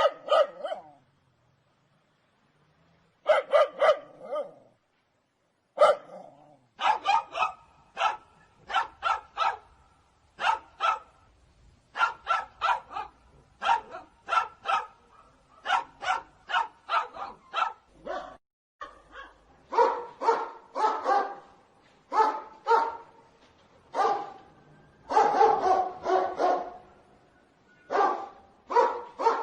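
Dogs barking in quick runs of two to four barks. There are a few pauses in the first seconds, then the barking goes almost without a break. About two-thirds of the way through, the barks change character, as if from a different dog.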